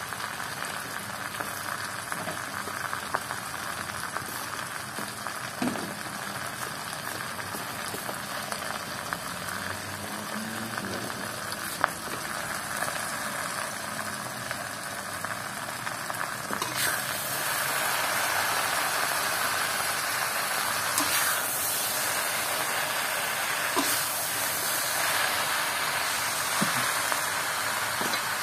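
Chinese kale leaves frying in a hot pan: a steady sizzling hiss with a few sharp clicks. It grows louder a little past the middle, as the leaves wilt and release their water.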